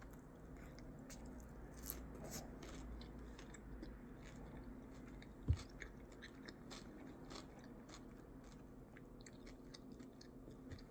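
Close-up chewing of a crunchy mouthful of pickle-topped bratwurst, with many small crisp crunches. A single low thump about five and a half seconds in.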